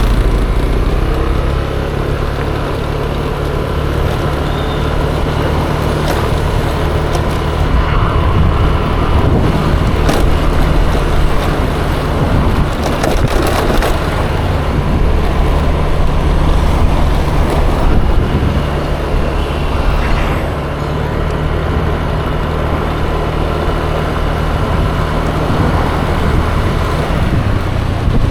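Yamaha Aerox 155 scooter's single-cylinder engine running steadily on the move, with a constant haze of road noise around it.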